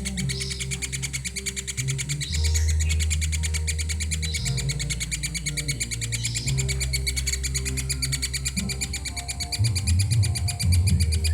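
Young woodpecker chattering in a rapid, continuous run of calls, with short higher notes about every two seconds, over background music with a low bass that shifts every couple of seconds.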